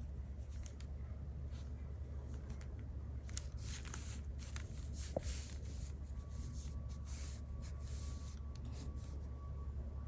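Soft swishing of a Chinese brush stroking across fully sized cicada xuan paper, in two runs of strokes, over a steady low hum.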